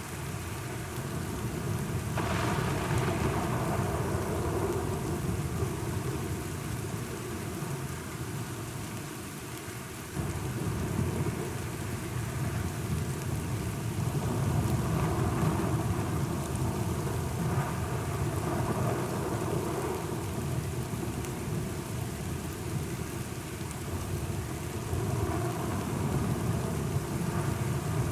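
Thunderstorm: steady rain with thunder rumbling, swelling and fading in long waves, with a sudden louder roll about ten seconds in.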